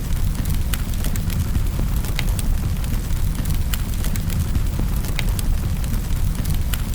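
Wood fire burning in a fireplace: a steady low rumble of the flames under frequent sharp, irregular crackles and pops.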